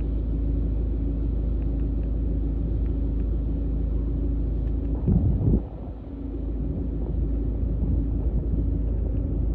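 Strong wind rumbling and buffeting over a steady engine hum, with one louder gust about five seconds in, then a brief drop.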